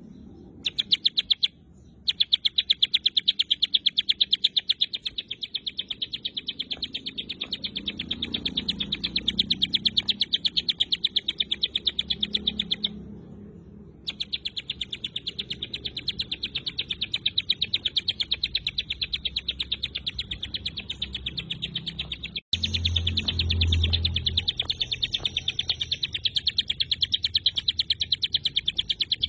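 Ciblek gunung (a prinia) giving its 'tembakan rapat' call: a fast, tight, unbroken train of sharp, high chipping notes, all at about the same pitch. It pauses briefly twice.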